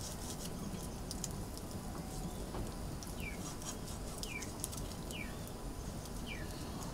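A bird calling: a short, high, downward-sliding note repeated about once a second, over a steady low background hiss and faint scattered clicks.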